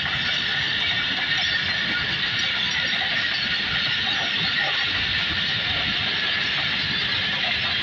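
Passenger train coaches rolling past on the rails: a steady high-pitched rush of wheel-on-rail noise.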